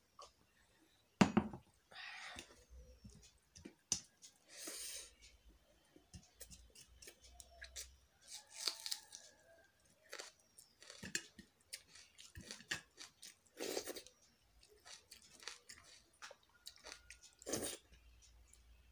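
Close-miked eating: wet chewing and lip smacking with many small clicks, as rice and prawn curry are mixed and eaten by hand. A single sharp knock comes about a second in.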